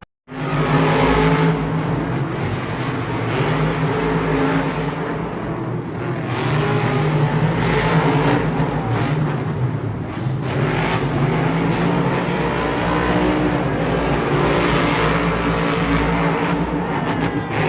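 Monster trucks' supercharged V8 engines running loud and revving in a race, swelling several times as the trucks accelerate.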